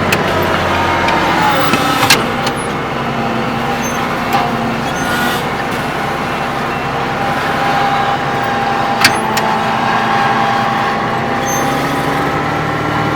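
Case Magnum 7210 tractor's six-cylinder diesel engine running steadily under work, its pitch wavering slightly, with two sharp clicks about two seconds in and again near nine seconds.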